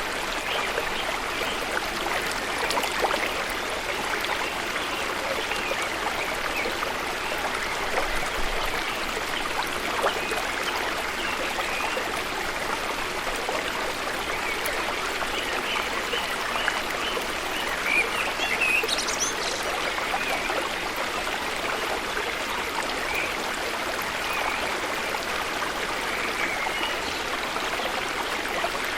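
Flowing water rushing steadily, a continuous even hiss of a stream or falls.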